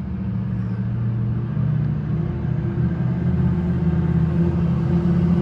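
An engine running steadily with a low, deep hum that grows gradually louder.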